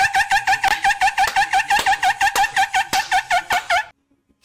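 A high-pitched, giggle-like sound on one steady pitch, pulsing evenly about seven times a second and stopping suddenly near the end.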